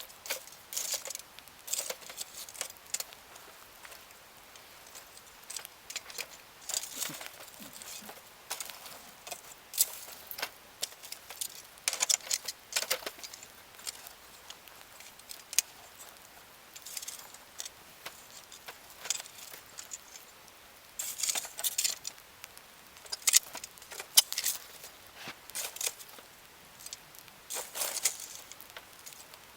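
Wood campfire crackling, with irregular sharp pops and snaps and a few busier bursts of crackle.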